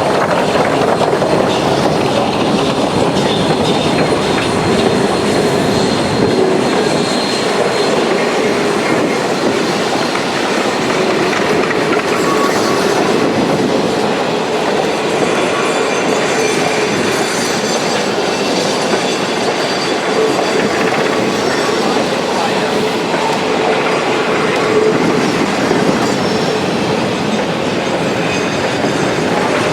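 Train rolling along the track: a steady running noise with a faint, thin wheel squeal.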